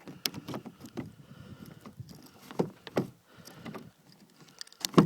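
Irregular crunching and knocking from someone moving about and handling things at a pickup truck in snow, with a louder sharp knock near the end.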